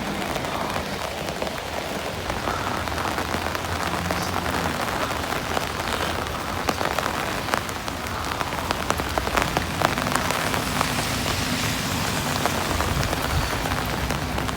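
Heavy rain falling steadily, countless drops ticking on hard surfaces, with a low steady hum underneath.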